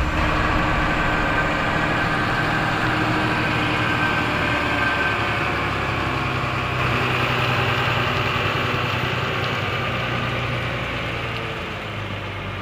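Heavy truck engine running steadily, easing slightly in loudness towards the end.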